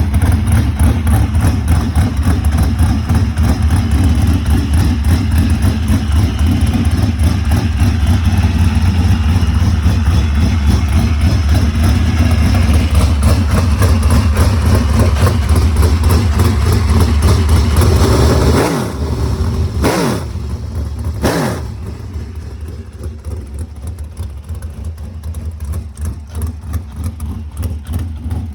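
Freshly built race car engine running loud and fast. Its revs fall away at about two-thirds of the way through, it is blipped sharply twice, and it settles to a quieter, lumpy idle.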